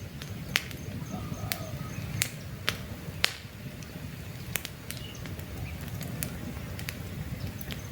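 Wood campfire burning, with irregular sharp crackles and pops over a steady low rumble of flames. A faint repeating high chirp sounds in the first half.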